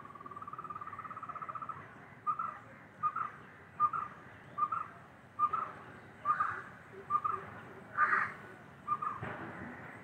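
A bird calling: a fast, slightly rising trill, then a run of nine short double notes at the same pitch, spaced a little under a second apart.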